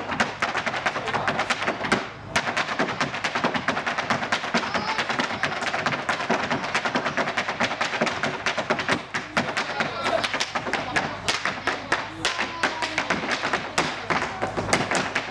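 Irish dancers' hard shoes beating a fast, dense rhythm of taps and stamps, with a brief break about two seconds in.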